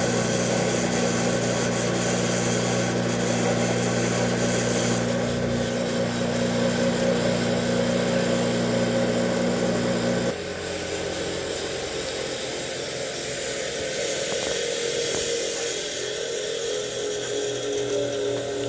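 Bench grinder running with its fine stone grinding the edge of a steel lawnmower blade: a steady motor hum under a constant grating hiss. About ten seconds in the low hum drops away and the sound gets a little quieter, while the grinding noise continues.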